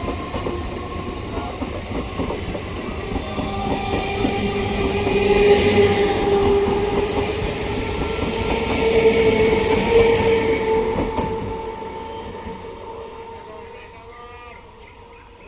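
A train passing close by over a level crossing: continuous rumble and wheel clatter with steady whining tones, loudest a third and two thirds of the way in, then fading away as it recedes.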